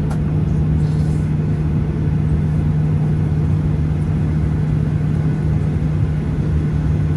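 Boeing 737-800's CFM56-7B engines running, heard from inside the passenger cabin as a loud, steady low drone with a constant hum.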